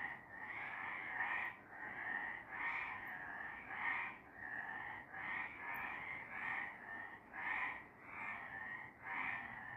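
Several frogs calling together at night in a dense chorus, their overlapping croaking calls swelling and fading about twice a second.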